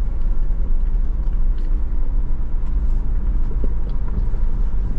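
Off-road truck driving slowly up a rough dirt trail, heard from inside the cab: a steady, heavy low rumble of engine and tyres, with a few faint small rattles.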